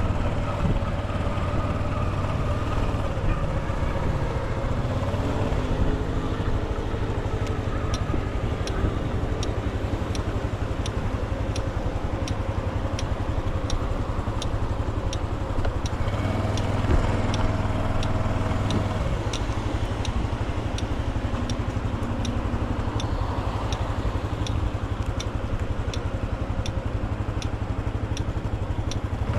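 Motorcycle engine running under way, heard from on the bike, its note shifting as the speed changes. From about eight seconds in, a light regular ticking comes at roughly three ticks every two seconds.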